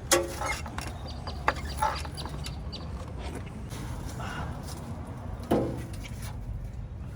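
Metal clanks and knocks as a 4L60 automatic transmission is worked into place against the engine, pushed and turned to seat it. A few sharp knocks with a short metallic ring, the loudest about five and a half seconds in, over a steady low rumble.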